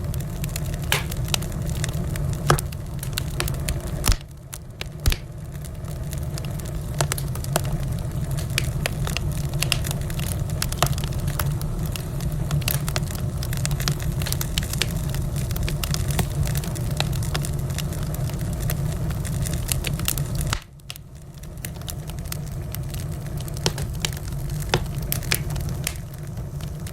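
Wood fire in a fireplace crackling, with frequent sharp pops and snaps over a steady low rumble of the flames. The sound drops briefly twice, about four seconds in and near the twenty-second mark, then comes back.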